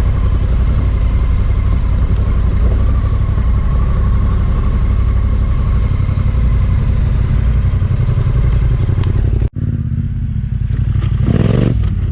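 Adventure motorcycle engine running steadily under throttle while riding a trail, with some clatter. The sound breaks off abruptly about nine and a half seconds in and picks up again as a different stretch of riding.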